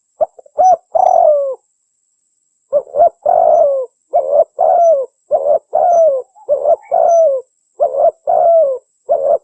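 Spotted dove (tekukur) cooing: short notes each followed by a longer, falling coo, repeated about once a second, with one pause early on. It is a lure recording used to call wild spotted doves.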